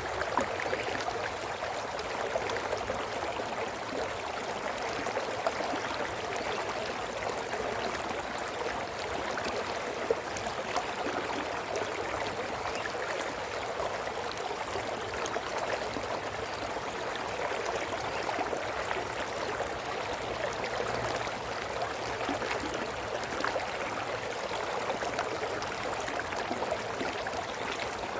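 A brook flowing over rocks: a steady, continuous babble and gurgle of running water.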